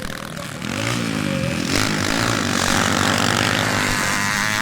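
Classic motocross bikes racing, their engines revving up and down as they run on the track; the engine note swells about a second in and stays loud.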